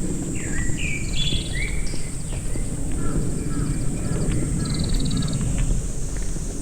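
Forest birds calling: several short gliding calls in the first couple of seconds, and a buzzy trill about five seconds in, over a steady high-pitched hiss.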